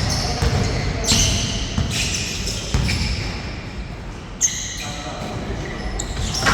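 Basketball bouncing on an indoor court during play, with short high squeaks now and then, the sharpest about four and a half seconds in.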